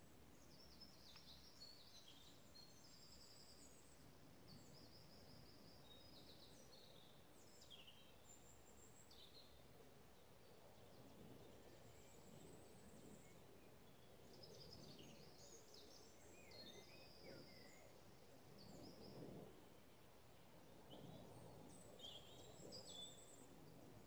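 Faint songbirds singing: short trills and thin whistles, coming and going. From about ten seconds in there are soft low rumbles of noise, loudest a little before the end.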